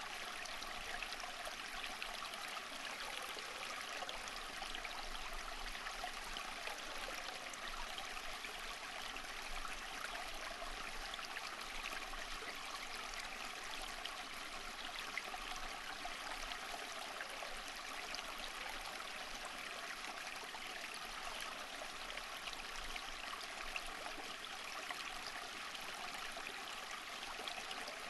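A stream of running water, steady and unbroken, with a busy trickling texture.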